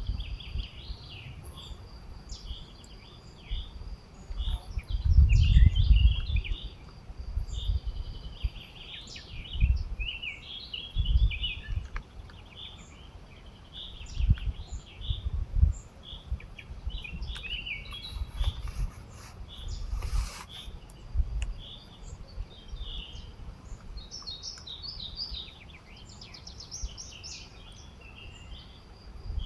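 Several songbirds chirping and singing, with overlapping high, quick calls and trills throughout. Irregular low rumbles come and go underneath and are the loudest sound.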